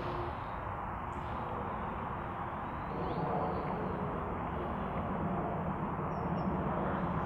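Steady outdoor rushing noise in open country, a little louder from about three seconds in, with a faint short bird chirp near the end.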